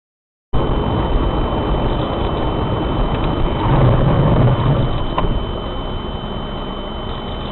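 Vehicle engine and road noise recorded by a dashcam, starting abruptly half a second in. It swells briefly in a low rumble about four seconds in, with a faint steady high whine throughout and a single click a little after five seconds.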